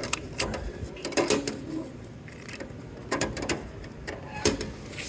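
LIRR ticket vending machine printing and dispensing a ticket: a run of mechanical clicks and clunks in short clusters, the loudest near the end.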